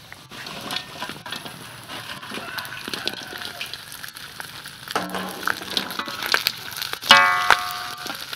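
Chicken pieces sizzling in hot oil in a steel wok, stirred and scraped with a metal spatula. About seven seconds in, a brief loud pitched sound stands out.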